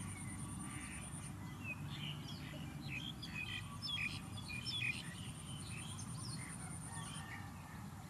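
Small birds chirping, a flurry of short, high twittering calls that is busiest in the middle and thins out towards the end, over a steady low rumble.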